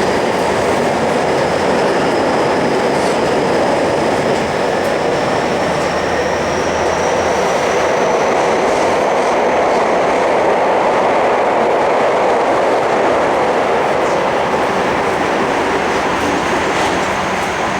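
Tobu 50050 series electric commuter train running through a subway tunnel, heard from inside the car: a steady loud rumble of wheels on rail. A thin high whine rises slowly in pitch through the middle.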